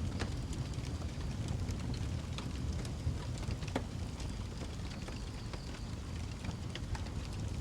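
Wood fire burning in a fireplace: a steady low rumble of the flames with a few sharp crackles and pops scattered through it.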